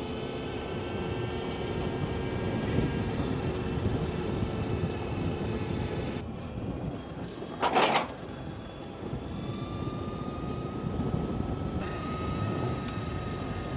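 Energica Experia electric motorcycle underway: the electric drive's whine sounds as several steady tones that shift slowly in pitch, over wind and tyre noise. A short loud burst comes about eight seconds in.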